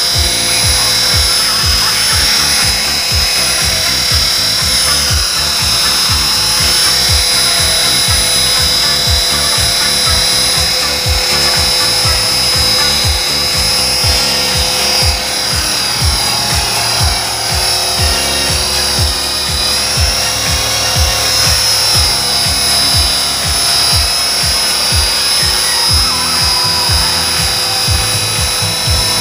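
Steady high-pitched whine of a small electric Esky RC helicopter's motor and rotor, over background music with a steady beat.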